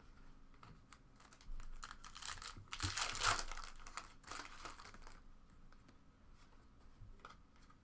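Crinkling and rustling of plastic trading-card packaging being handled, loudest about three seconds in, with a few light clicks of cards near the end.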